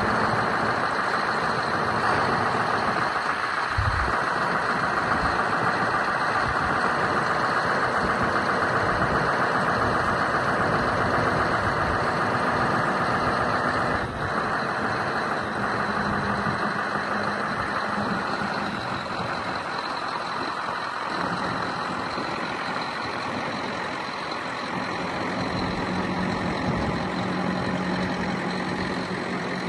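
Scania R620 8x4 truck's V8 diesel engine running steadily, with a thin, steady high whine over it.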